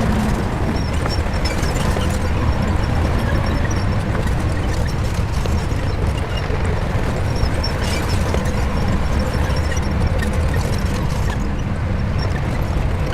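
Shantui bulldozer's diesel engine running steadily under load, with a few faint knocks.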